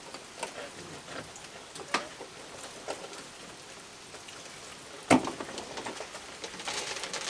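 Steady rain falling, with scattered small clicks and knocks and one sharp knock about five seconds in.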